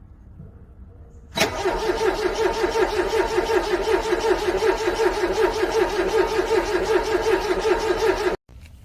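A car's starter motor cranks a cold engine for about seven seconds, turning it over with an even, rapid pulsing whir that starts suddenly and cuts off abruptly without the engine catching: a failed cold start in freezing weather.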